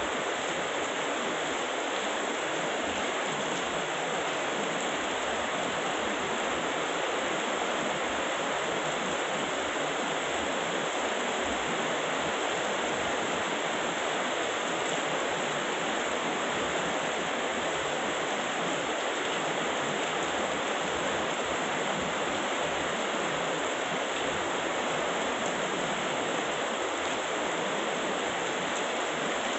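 Heavy rain pouring steadily, an even, unbroken rush of downpour.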